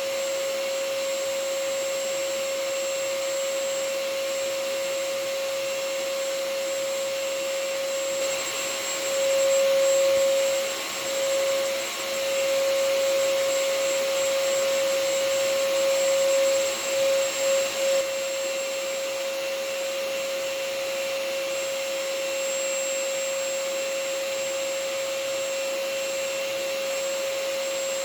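Vacuum cleaner motor running continuously: a steady rushing hiss with a strong humming whine. For about ten seconds in the middle it grows a little louder and wavers, then settles back to steady.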